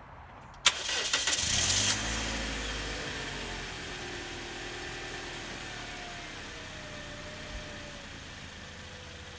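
Toyota Corolla sedan's engine being started: the starter cranks briefly, about a second in, then the engine catches. Its fast idle slowly drops in pitch and eases off as it settles.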